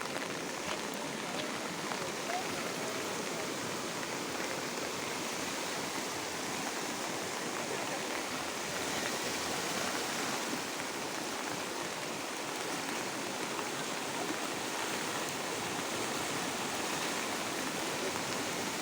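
The Beas River in flood, swollen by days of continuous rain, rushing steadily.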